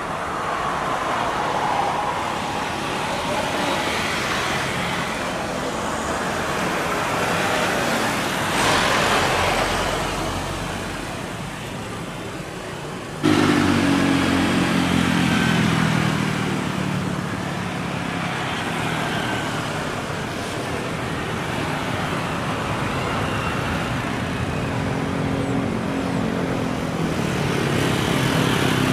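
Jet airliner engine noise mixed with road traffic. A steady roar with a brief swell about nine seconds in is cut off abruptly about halfway through by a louder passage, whose engine tones slowly fall in pitch and rise again near the end.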